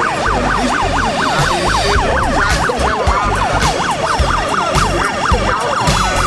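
Electronic yelp siren, a fast up-and-down wail repeating about four to five times a second, over steady hall noise and a low beat.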